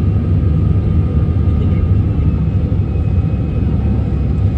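Airliner engines and rushing air heard inside the passenger cabin: a steady, loud low rumble with a faint steady whine above it.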